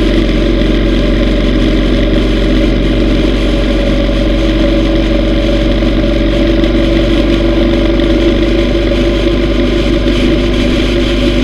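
Yamaha V Star 950's air-cooled V-twin engine running at a steady speed on the road, its note even with no change in revs.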